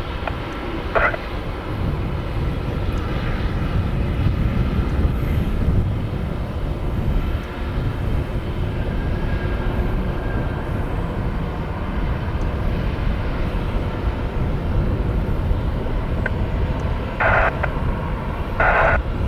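Airliner engines rumbling steadily as an aircraft passes the airport, swelling a few seconds in. Two short bursts of radio noise from the airband scanner come near the end.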